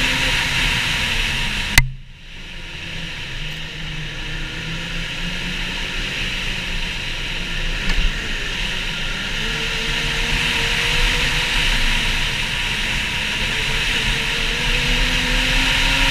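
Ski-Doo 900 ACE three-cylinder four-stroke snowmobile engine running on the trail under a steady rush of wind and track noise, its pitch drifting up and down. About two seconds in there is a sharp click, and the sound drops away, then builds back up. The engine pitch climbs toward the end.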